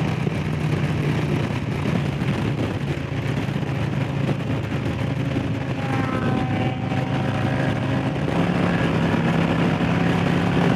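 Harley-Davidson Low Rider S's Milwaukee-Eight V-twin running hard at speed, a steady engine note that steps up slightly in pitch about eight seconds in.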